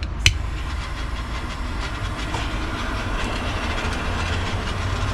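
Small gas torch lit with a click and then burning with a steady hiss, used to shrink heat-shrink tubing over a soldered wire joint.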